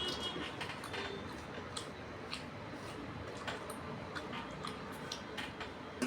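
Eating by hand: irregular soft clicks and wet smacks of chewing and of fingers working rice and fish curry, with one sharper click near the end.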